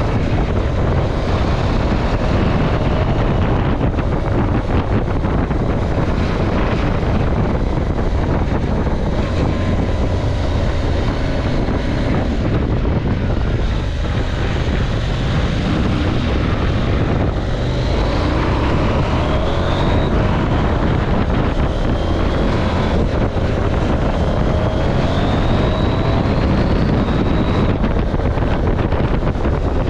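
KTM 790 Adventure's parallel-twin engine running under heavy wind rush on the microphone, its note rising through the revs several times in the second half as the bike accelerates.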